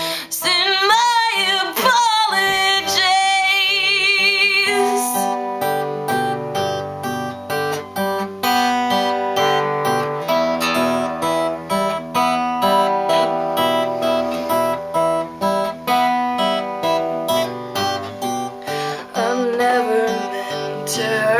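Acoustic guitar strummed in a steady waltz rhythm under a woman's voice. The voice holds a long wavering note for the first few seconds, then the guitar plays alone until the voice comes back briefly near the end.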